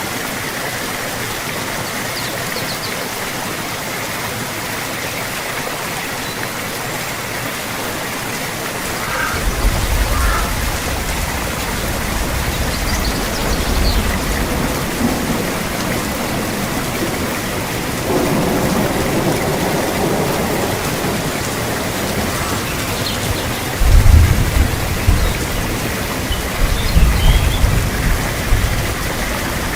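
Steady rain falling, with low rumbles of thunder coming in about nine seconds in and growing loudest in bursts near the end.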